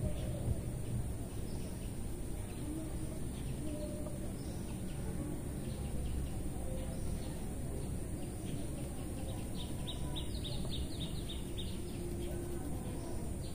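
Birds chirping over a steady low rumbling background noise, with a quick run of chirps about two-thirds of the way in.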